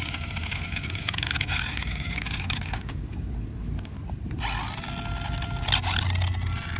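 Toy radio-controlled car driving in spurts: a scratchy run of wheels on rough ground with fine clicks that stops about three seconds in, then the small electric motor whines again, its pitch rising and falling as it speeds up and slows.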